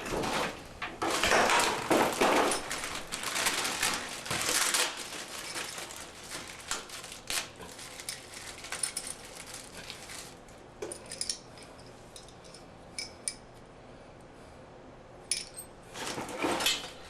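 Small metal parts of a repair plate kit, a plate, screw and bracket, being handled, clinking and rattling. Rustling and scraping fill the first few seconds, then scattered clinks and clicks follow.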